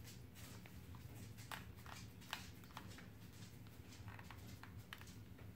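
Near silence: a faint low room hum with a few faint, scattered clicks.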